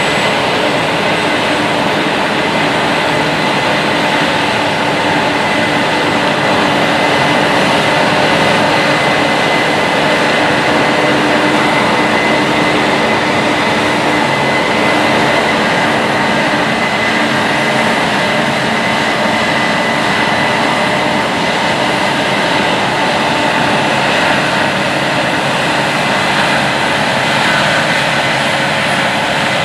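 Heavy Case IH diesel harvest machinery running steadily under load, a continuous engine and drivetrain noise with a steady high whine over it.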